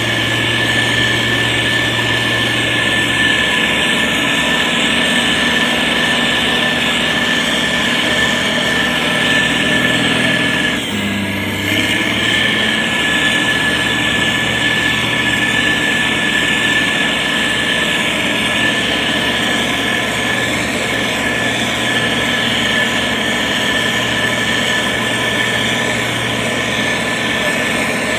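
Diesel engine of a SANY STG190C-8S motor grader running steadily under work, with a brief dip and change in pitch about eleven seconds in.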